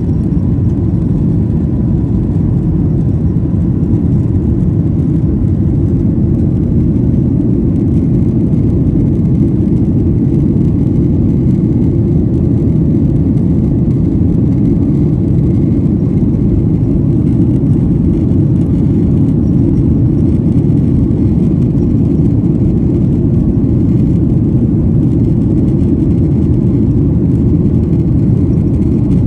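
Steady low drone of an airliner heard from inside the passenger cabin in flight: jet engine and airflow noise, with a faint thin whine over it and no change in level.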